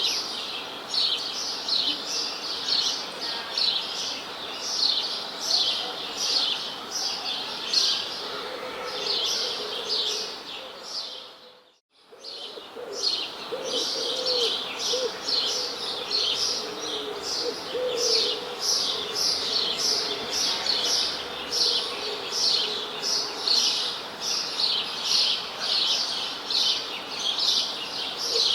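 A chorus of small birds chirping in quick, continuous repeated notes, with lower wavering calls beneath. The sound fades away to almost nothing a little before the middle and fades back in.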